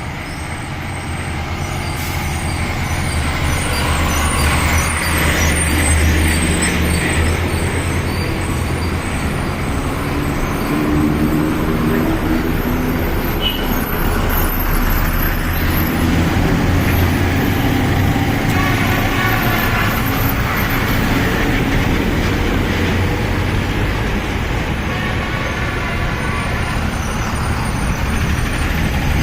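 Heavy truck engine running under way, with a steady low rumble and road noise. It gets louder over the first few seconds, then holds steady.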